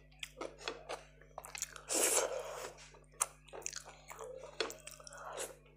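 Close-miked chewing of soft roti with spinach curry: a run of short wet mouth clicks and smacks, with a louder, longer squelchy stretch about two seconds in.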